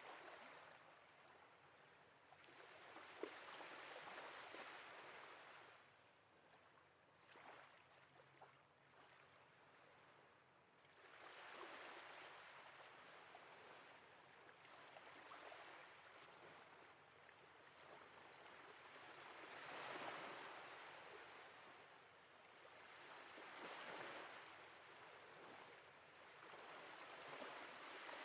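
Faint sea waves washing in gently, swelling and falling away every few seconds.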